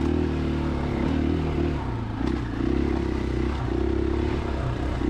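Single-cylinder four-stroke engine of a KTM 500 EXC-F dirt bike running under way on a trail. The throttle eases off briefly about two seconds in, then picks back up.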